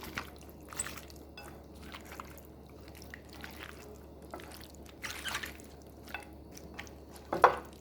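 Wet squishing and dripping of raw chicken wings being worked by hand in a soy-and-oil marinade, in scattered soft bursts, with one louder brief knock near the end.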